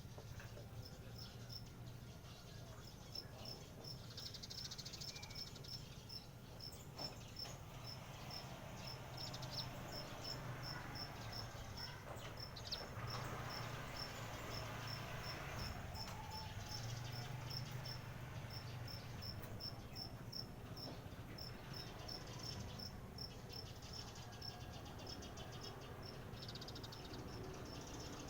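High, short chirps repeating evenly, about three a second, over a low steady hum and soft rustling noise.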